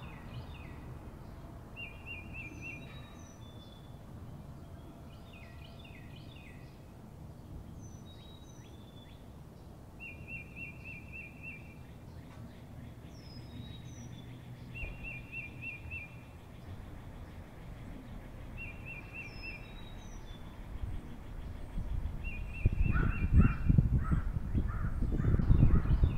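Birds calling: a short, fast trill repeated every few seconds, with scattered high chirps, over a steady low background noise that grows much louder near the end.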